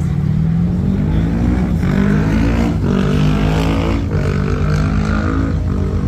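Car engine accelerating hard through the gears, its pitch climbing and then dropping back at each upshift, about two, three and four seconds in, over a steady low rumble.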